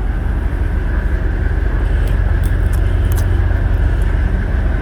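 Truck's diesel engine running steadily, a low rumble with a faint steady whine above it and a few light clicks two to three seconds in.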